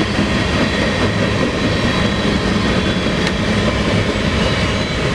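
BNSF mixed freight train rolling past close by: a steady, loud noise of wheels running on the rails.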